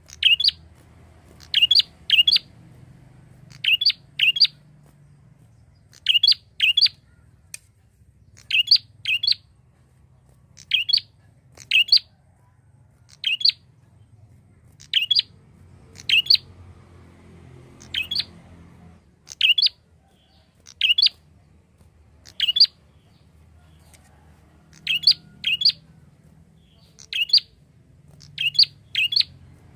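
Prinia (prenjak) calling: short, sharp, high chirps in quick clusters of two or three, repeated about every second or two.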